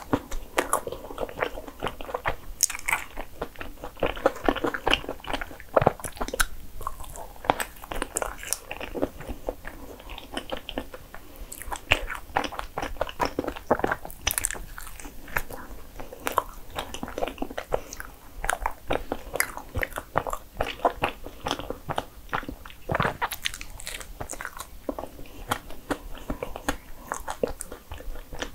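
A person biting into and chewing a soft bagel sandwich stuffed with thick cream filling, with many small, irregular wet mouth clicks.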